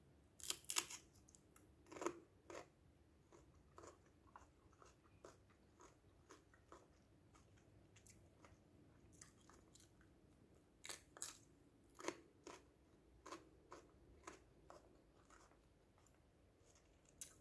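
Raw yellow bell pepper slices being bitten and chewed: crisp crunches, loudest in clusters near the start and again about eleven seconds in, with quieter chewing clicks between.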